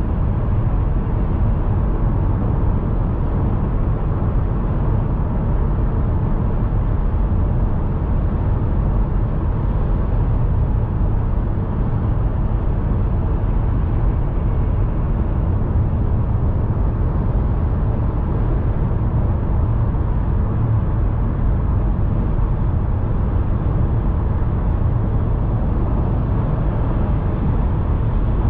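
A car driving at a steady speed: an even, low rumble of road and engine noise with little high end and no changes.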